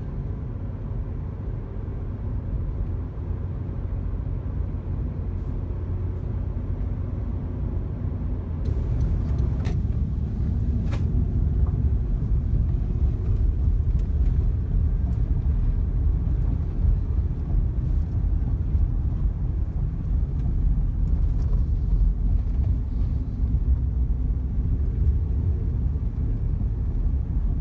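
Steady low road and tyre rumble inside the cabin of a Honda Odyssey minivan on the move, growing a little louder about nine seconds in, with a few faint knocks soon after.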